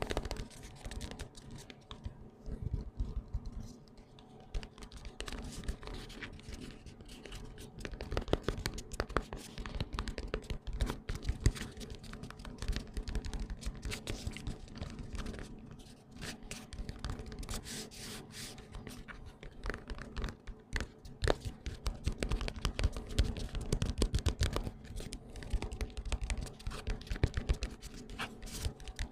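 Hands rubbing cream close to the microphone: a dense, irregular run of small sticky crackles and clicks over soft rubbing.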